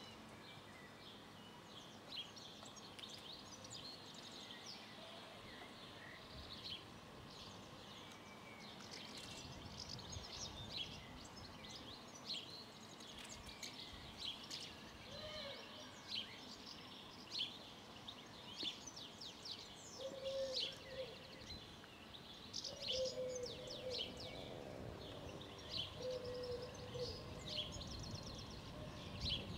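Birds chirping: many short, high calls, repeated throughout and heard faintly. About twenty seconds in, a lower call repeats several times.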